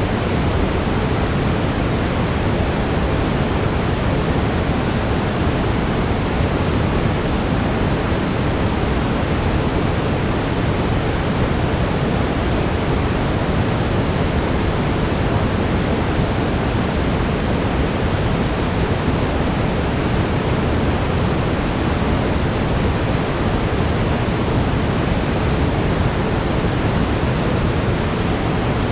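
Steady brown noise: a constant, deep, even hiss that does not change, with a faint steady tone in it.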